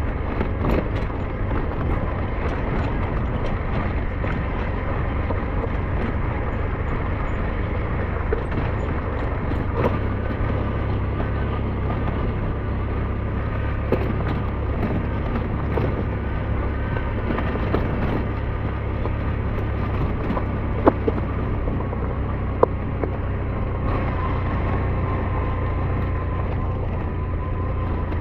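SYM NH T 200 motorcycle running steadily while being ridden, a continuous engine and road noise with a heavy low rumble. A couple of sharp knocks about two-thirds of the way through.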